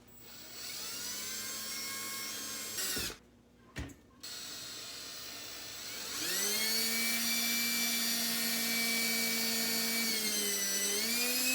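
Electric drill motor whining: it spins up and runs for about two seconds, blips briefly, then spins up again into a longer steady run whose pitch dips and recovers once near the end, as when the bit takes load.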